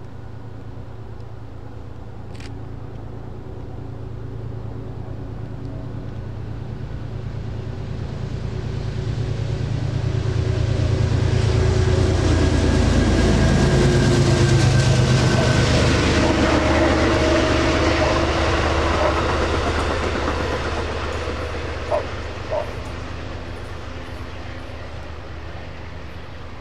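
A train passing by: its rumble and engine tones build to a peak about halfway through, drop in pitch as it goes past, and fade away. Two short clicks come near the end.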